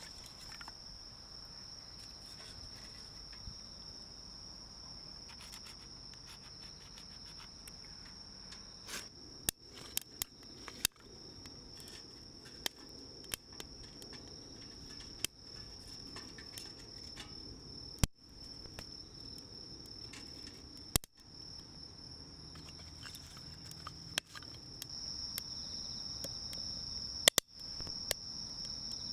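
Insects, crickets by the sound of it, trilling in one steady high-pitched band. About a third of the way in, scattered sharp clicks and snaps start to come over it.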